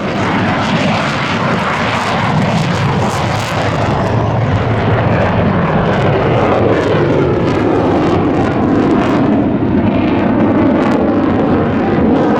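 Military jet aircraft engine noise, loud and sustained, with slowly shifting bands of pitch as the jet flies over.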